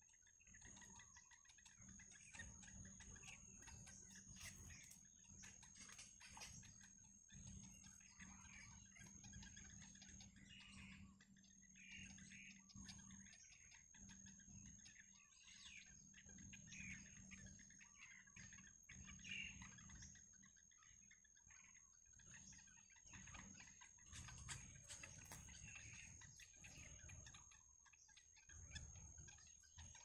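Faint, scattered bird chirps every few seconds over a thin steady high-pitched tone and a low hum.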